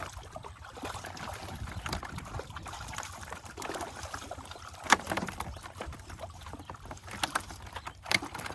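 Water splashing and sloshing, with scattered clicks and one sharp knock about five seconds in.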